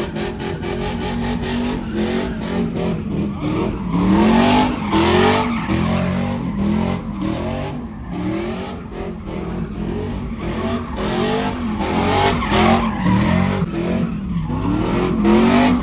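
A vehicle's engine revving up and down over and over, about once a second, with tires squealing and skidding: a burnout.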